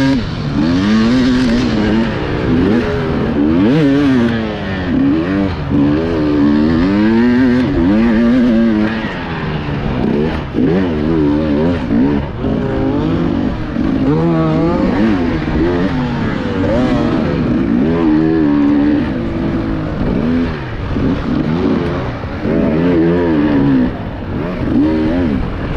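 Enduro motorcycle engine revving up and down continuously under constantly changing throttle, with short dips and rises every second or so as the bike is ridden over rough off-road terrain.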